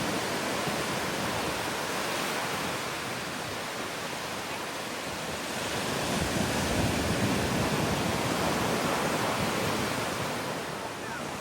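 Ocean surf washing onto a beach, a steady rush that swells louder with an incoming wave about six seconds in, then eases.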